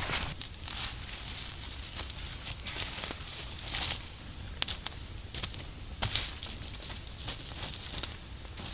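Irregular crinkling and rustling from something being handled, with scattered sharp clicks and snaps. Louder bursts come about four and six seconds in.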